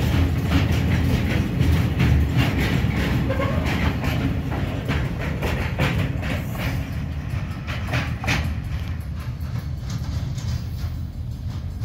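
Freight train of hopper wagons rolling past, steel wheels clacking repeatedly over rail joints above a steady low rumble. The sound fades over the last few seconds as the wagons draw away.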